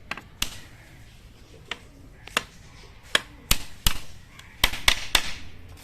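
Hammer striking nails into wooden battens while a cage frame is nailed together: about nine sharp, irregular blows, several in quick runs near the middle and end.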